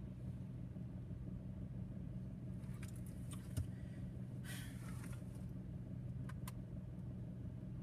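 Steady low hum of a car's idling engine heard from inside the cabin, with scattered light ticks and a brief hiss about four and a half seconds in.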